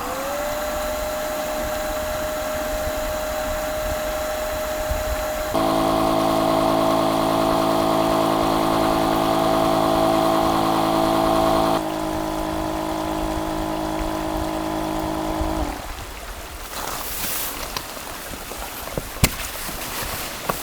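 Electric air pump inflating: the motor spins up with a rising whine, then runs at a steady pitch. About five and a half seconds in it grows louder and fuller, drops back about twelve seconds in, and cuts off suddenly near sixteen seconds.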